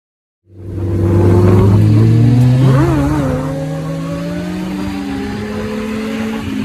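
Motorcycle engine accelerating, cutting in abruptly about half a second in, its pitch climbing steadily with a brief waver partway through.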